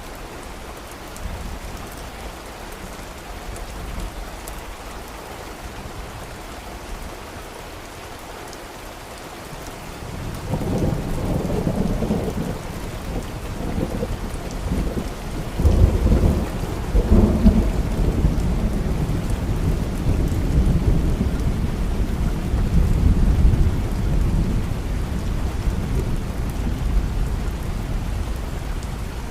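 Steady rain with a long roll of thunder that builds about ten seconds in, is loudest around the middle, and slowly rumbles away.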